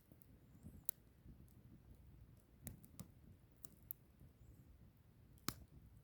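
Burning firewood crackling softly, with sharp pops at irregular moments over a low rumble of the fire; the loudest pop comes near the end.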